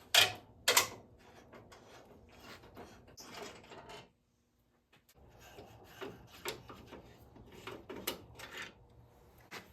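Phillips screwdriver backing out the screws of a plastic turn signal lens, then the lens being worked loose: scattered sharp clicks and taps with light scraping, the loudest two right at the start. A second of dead silence breaks it near the middle.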